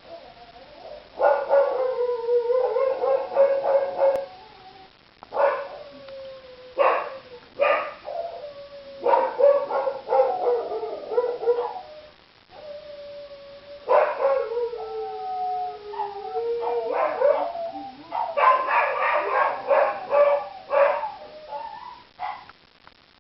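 Several dogs howling in long, drawn-out wails, sometimes two at once on different pitches, with sharp barks and yips between them. The noise comes in repeated bouts separated by short pauses.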